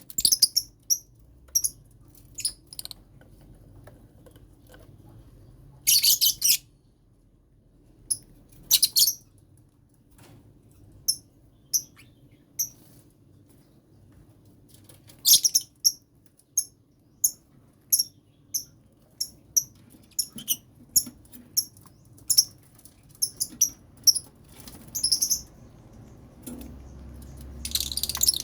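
Lovebirds chirping: short, high-pitched chirps, some single and some in quick runs, with a few louder bursts of rapid chattering.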